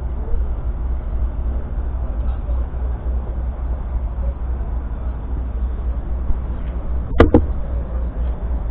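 Steady low rumble of a busy machinery show hall, with faint voices in the background. A sharp double knock sounds about seven seconds in.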